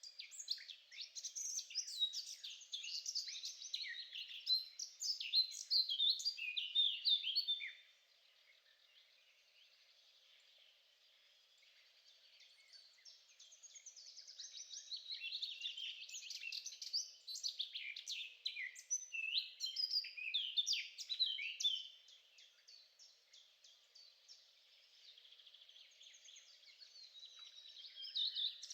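A songbird singing long, rapid runs of varied chirps and trills. There is one phrase of about eight seconds at the start, another from about twelve to twenty-two seconds in, and a third building near the end.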